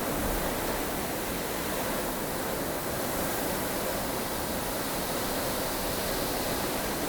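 Snowstorm ambience: steady rushing wind noise, even and unbroken, with no gusts or distinct events.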